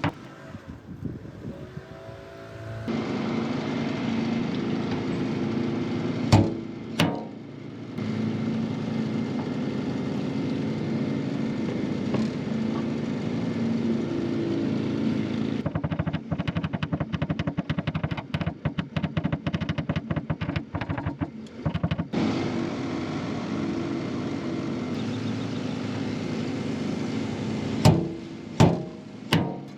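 A steady motor hum runs throughout. Over it comes a quick run of light taps in the middle, with a few sharper knocks a little after the start and three near the end, typical of a knockdown tool tapping down high spots around a dent in a vehicle panel.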